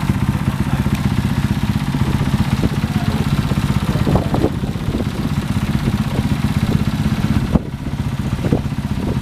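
Motorcycle engine held at steady revs for a noise test, running with a fast, even beat. The level dips briefly about three quarters of the way through.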